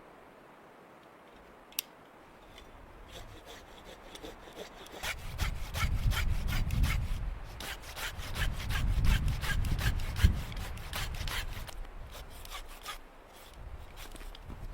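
Hand saw cutting through wood in quick, repeated strokes, building up a couple of seconds in and loudest in the middle, after a single sharp click about two seconds in.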